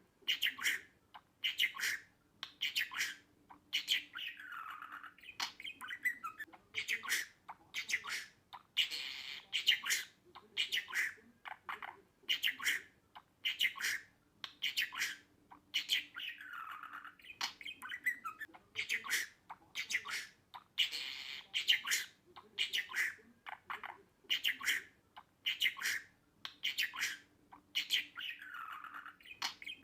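Budgerigar squawking and chirping in quick short calls, one or two a second, with a longer call every few seconds; the same sequence recurs about every four seconds, like a looped budgie recording.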